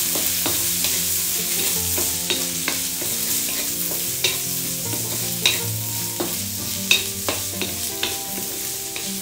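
Onion, garlic, ginger and pork fat sizzling in a hot wok while a wooden spatula stirs them, with scattered scrapes and taps of the spatula against the pan.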